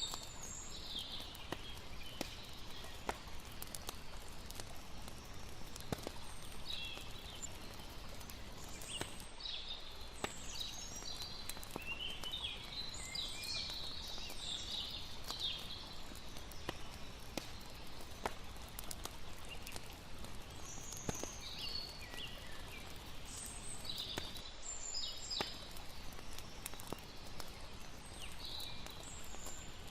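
Layered campfire-and-night nature soundscape: a steady wash of lapping water, sharp scattered pops and crackles of a burning wood fire, and frequent short high chirping calls of night creatures such as crickets and birds.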